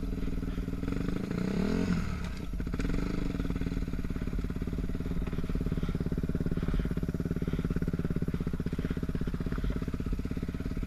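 Yamaha YZ dirt bike engine running. It revs up briefly about two seconds in, then drops back and runs steadily at low revs with an even pulsing beat.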